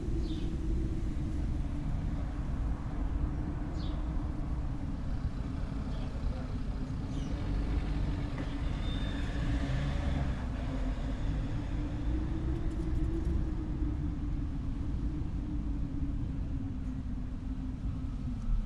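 A low, steady engine rumble with a constant hum, which drops away near the end. A few faint bird chirps sound over it.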